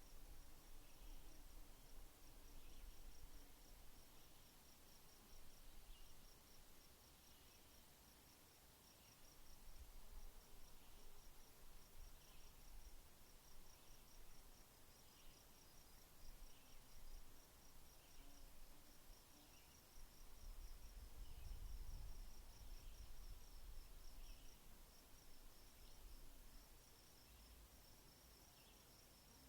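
Faint insect chirping: a rapid, high pulsed trill repeating in runs with short gaps, with a low rumble swelling about two-thirds of the way through.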